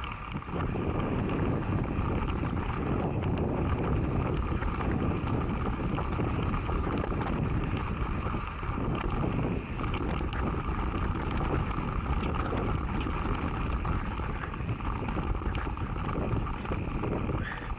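Mountain bike descending a rough, rocky trail: wind buffets the camera's microphone in a steady rush, and short clicks and rattles come from the tyres and bike over loose rock.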